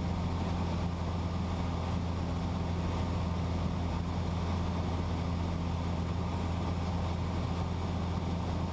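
Cessna 172's engine and propeller droning steadily in the cabin during a descent, a low hum with a few steady tones and a faint rush of air over it.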